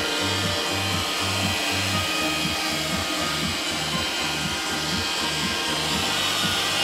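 iRobot Roomba 535 robot vacuum running, its vacuum motor and brushes giving a steady whir. Music with a steady, repeating bass pattern plays over it.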